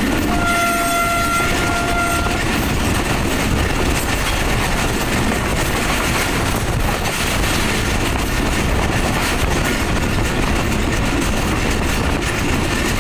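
Pakistan Railways passenger train at speed, heard from a coach window: steady wheel-on-rail and wind noise. Just after the start, a train horn sounds one steady note for about two seconds.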